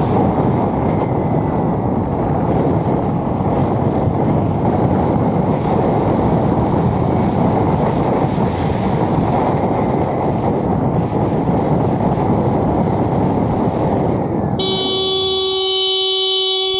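Steady wind and riding noise from a motorcycle in motion. About fourteen seconds in it drops away abruptly as the bike comes to a stop, and a vehicle horn sounds in one long, steady blast.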